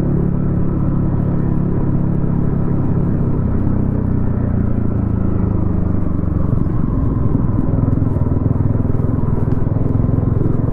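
Yamaha XSR155's single-cylinder engine running through a DIY exhaust while the motorcycle cruises at a steady pace, its note holding fairly even.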